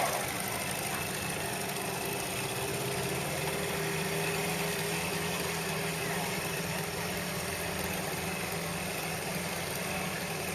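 Small boat's engine running steadily, a low even hum.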